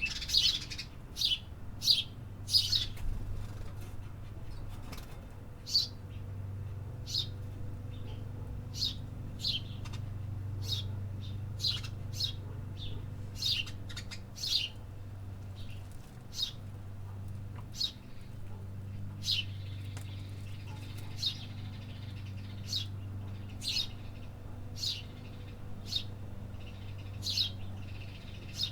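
Small city birds chirping: short sharp chirps in quick succession, roughly one or two a second, over a steady low hum.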